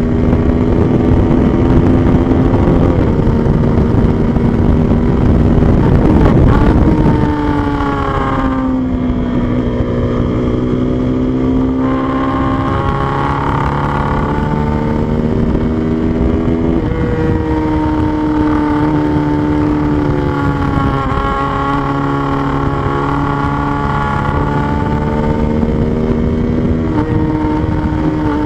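Motorcycle engine running under way, its pitch holding for a few seconds, then falling away and climbing again as the rider shifts through the gears, with heavy wind rush during the first seven seconds.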